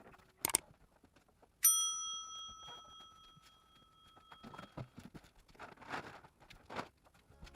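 A metal object is struck once and rings with a clear, bell-like tone that fades over two or three seconds. Scattered knocks and rustles follow as things are handled and moved.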